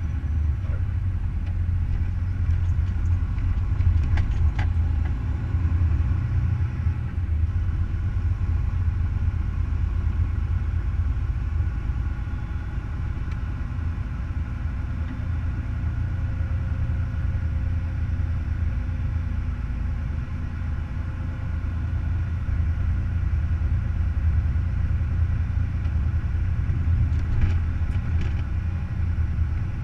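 Semi truck's diesel engine running with a steady low rumble, with a few brief clicks.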